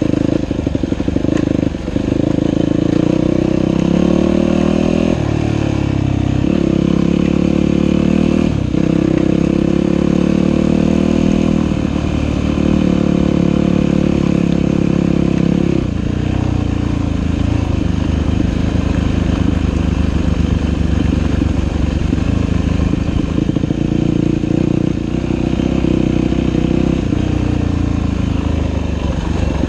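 Dirt bike engine running under changing throttle while riding a trail, its pitch rising and dropping every few seconds, with brief dips at about 2, 5, 8.5, 12 and 16 seconds in.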